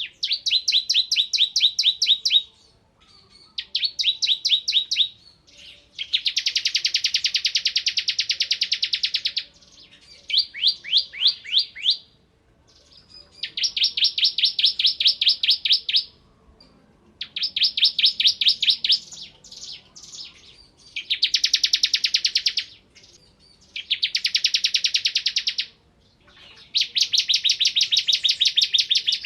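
Bar-winged prinia (ciblek kristal) singing hard in repeated bursts of very rapid, machine-gun-like trills. There are about nine bursts of two to three and a half seconds each, with short pauses between.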